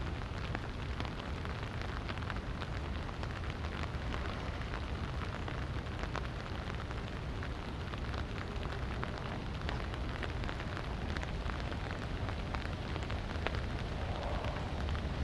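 Light rain pattering on surfaces, a steady hiss dotted with many small drop ticks.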